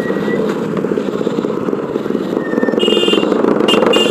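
Motorcycle engine running steadily under way. A vehicle horn beeps twice near the end.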